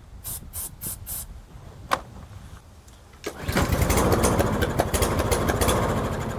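Four short hisses of carburettor spray, then the mower's Briggs & Stratton engine is pull-started and catches, running for about three seconds before fading: it runs only on the starting spray because the carburettor is not drawing any fuel.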